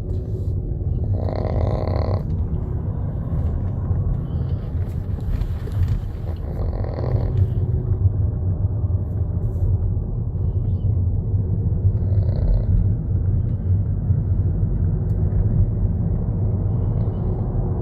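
A small dog snoring in its sleep, three snores about five seconds apart, the last one fainter, over a steady low rumble.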